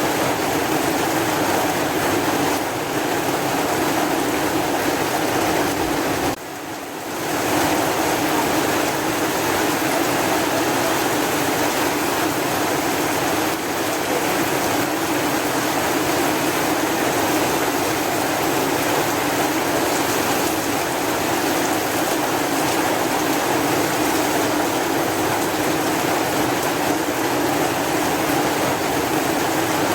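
Steady heavy rain, a dense even hiss that dips briefly about six seconds in.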